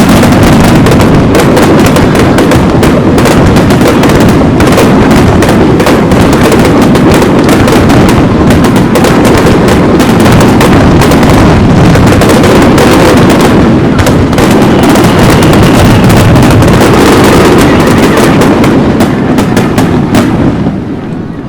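Fireworks going off in a dense, continuous barrage of bangs and crackles, thinning out near the end.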